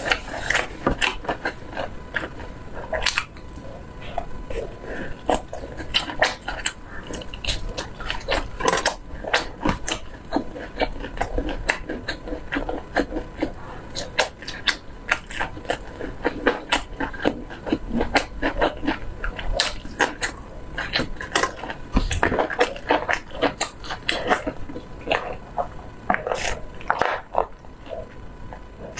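Close-miked chewing and biting of grilled skewered meat, a steady run of short wet clicks and smacks from the mouth.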